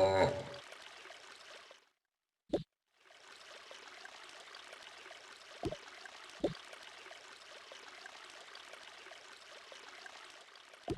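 Water trickling steadily, with two small drips partway through. A loud pitched sound cuts off in the first half second.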